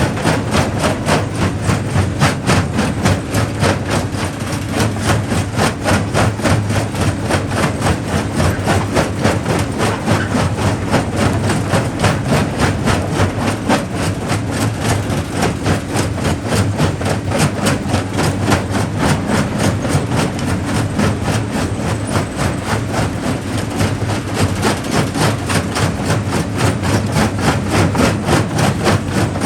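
Primary jaw crusher at work crushing rock: a steady heavy running hum under a fast, even clatter of knocks several times a second.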